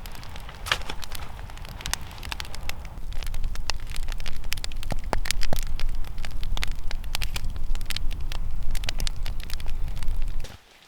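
Wood fire crackling and popping, with many sharp snaps of varying loudness over a low steady rumble. It cuts off abruptly just before the end.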